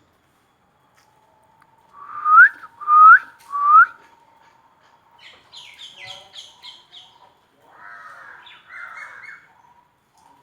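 Birds calling: three loud whistles, each sliding upward, about two to four seconds in, followed by a run of softer quick high chirps and then a short raspy chatter near the end.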